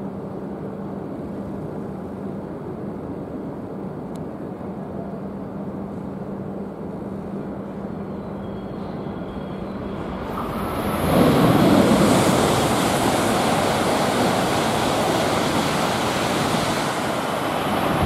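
Steady station hum, then about ten seconds in the loud rushing noise of a Shinkansen train rises sharply and holds.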